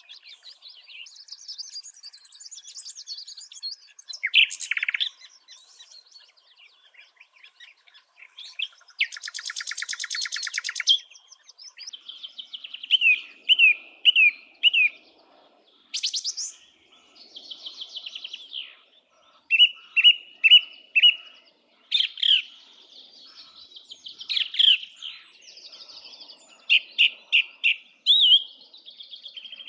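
Several wild birds singing and calling. Series of four or five quick down-slurred whistled notes repeat a few times, mixed with scattered chirps and a harsh buzzy rattle about nine seconds in.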